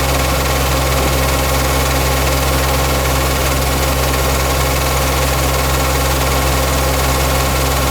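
A Yanmar farm machine's engine running steadily at an even speed, a constant low hum with a steady higher whine over it.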